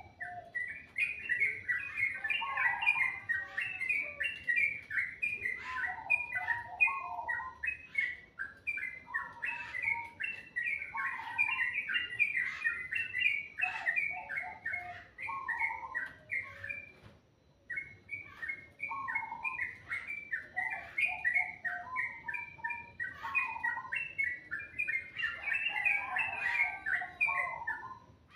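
Songbirds singing: a rapid, continuous chatter of high chirping notes with lower warbled phrases mixed in, breaking off briefly a little past halfway.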